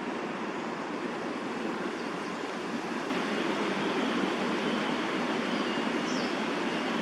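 Steady hiss and rumble of distant city traffic around the park, stepping up a little about three seconds in, with a brief faint high chirp near the end.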